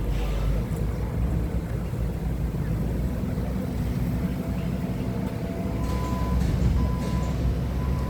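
Forklift engine running steadily under operation, joined from about six seconds in by a reversing alarm beeping about once a second.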